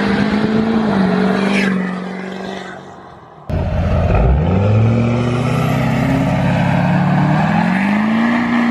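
Straight-piped vehicle engine running steadily, then fading away about two seconds in. After an abrupt cut, an engine revs up from low, holds high, and eases back slightly near the end.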